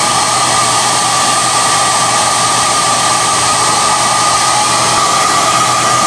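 SOUNATE high-airflow hair dryer (XM-H008/YX-HM008-G) running steadily: a loud rush of air with a steady high whine over it.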